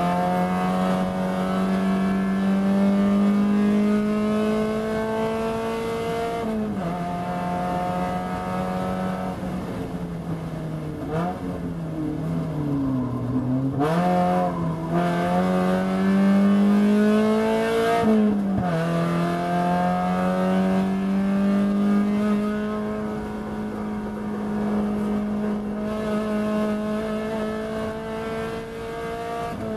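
Spec Miata's four-cylinder race engine, heard from inside the car at racing speed. It pulls up through the revs, with a sharp drop in pitch at each upshift, about six seconds in and again near eighteen seconds. Around the middle the pitch sinks in steps as the driver brakes and downshifts into a corner taken too fast, then the engine climbs again under acceleration.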